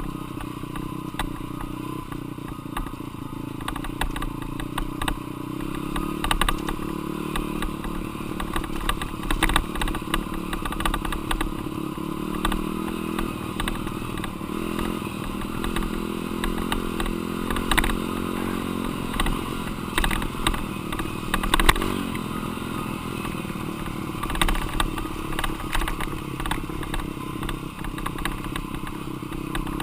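Dirt bike engine being ridden hard, revving up and falling back again and again as the rider works the throttle and gears, with frequent clattering knocks from the bike over rough ground.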